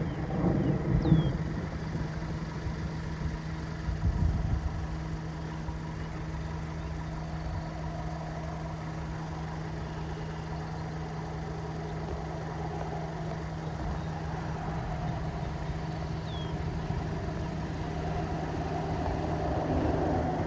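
Idling vehicle engine with a steady hum. Two brief louder low rumbles come about one and four seconds in, and another vehicle grows louder as it approaches near the end.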